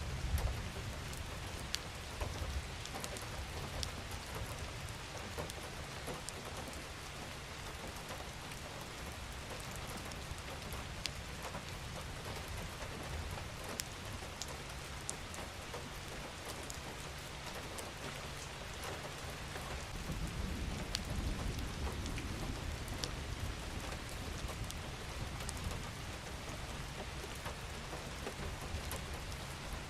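Steady rain falling on a surface, with individual drops ticking. A low rumble swells briefly at the start and again about two-thirds of the way through.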